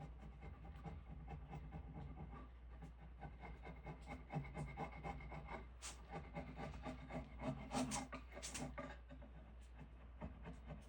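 Faint, irregular scraping and rubbing of hand work on wood, with a few light clicks, over a steady low hum.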